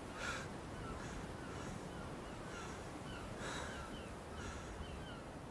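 Birds calling as ambience: a harsh, caw-like call about once a second and many small quick chirps, over a steady low rumble.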